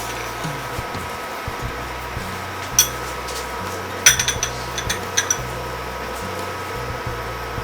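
A metal spoon clinking against a bowl as green-pea filling is spooned out: one sharp clink about three seconds in, then a small cluster of clinks and taps around four to five seconds in.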